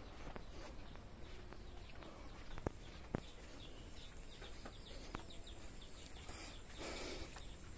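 Faint birds chirping in short calls, with two sharp clicks close together about a third of the way in.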